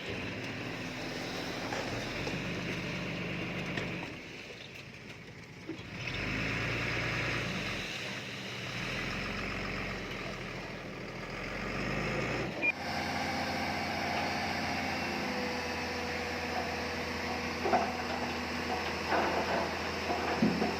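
Diesel engines of heavy earthmoving machinery running. The engine sound drops for a couple of seconds about four seconds in, then changes abruptly about twelve seconds in to a steadier hum, with a few sharp clanks near the end.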